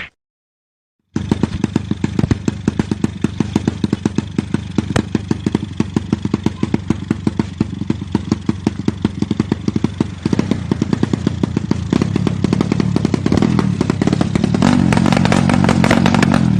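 After about a second of silence, a drag-racing motorcycle engine with an open exhaust runs at a fast, uneven idle in a rapid stream of sharp firing pulses. It picks up a little toward the end.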